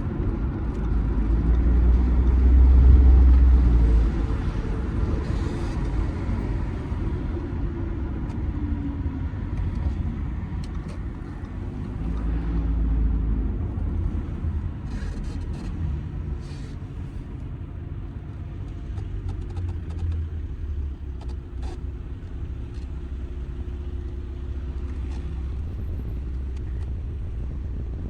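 Audi A6's 2.0 TDI four-cylinder diesel engine running with road rumble as the car is driven. The engine note rises twice, about three seconds in and again about twelve seconds in, then settles to a steadier, quieter drone.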